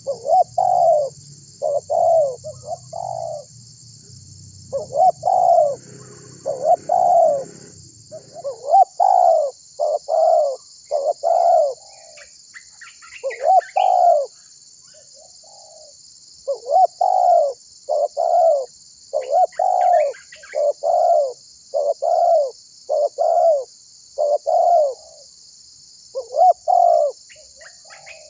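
Spotted dove cooing over and over, short low coo notes strung into phrases with brief pauses between them. Faint chirps of small birds come in now and then over a steady high hiss, and a low hum fades out about eight seconds in.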